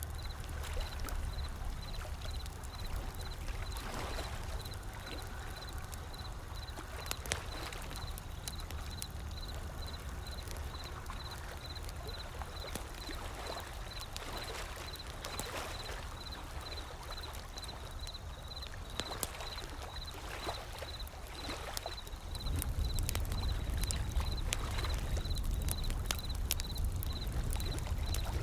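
Wood fire crackling with scattered sharp pops over the low, steady wash of ocean waves. The wave rumble swells louder about three quarters of the way through.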